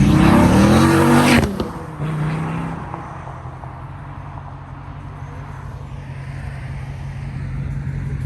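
A car engine revs hard, its pitch climbing, then drops off suddenly about a second and a half in. A lower, steadier engine drone carries on after that and slowly grows louder.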